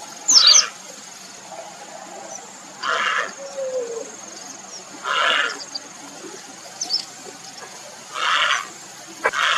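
Grey heron giving harsh, rasping calls: four of about half a second each, a few seconds apart, and a short one near the end.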